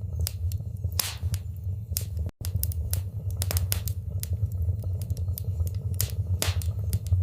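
Wood fire burning in a fireplace: a steady low rumble of flames with irregular sharp crackles and pops. The sound cuts out for an instant about two and a half seconds in.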